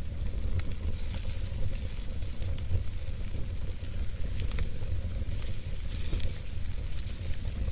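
Wood fire burning in a fireplace, crackling with frequent small sharp pops over a steady hiss and a low rumble.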